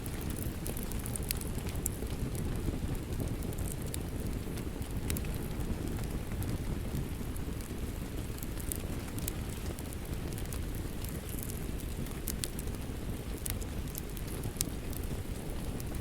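Steady rain ambience mixed with a crackling wood fire: an even low rushing wash of rain with scattered sharp crackles and pops from the fire.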